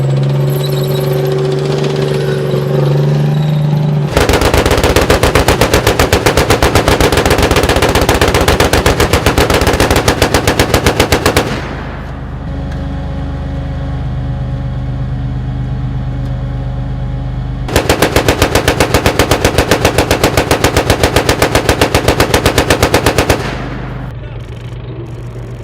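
Machine gun firing two long bursts of rapid, evenly spaced shots, each about six seconds long, the first starting about four seconds in and the second past the middle. Between and around the bursts, a tank's engine runs steadily.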